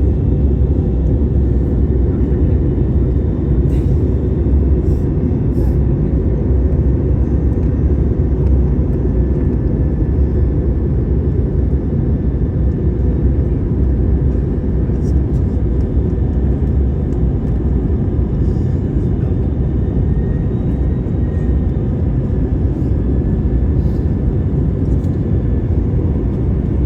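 Steady loud low rumble of an airliner on approach to landing, the even engine and airflow noise as heard inside the cabin, with a few faint clicks.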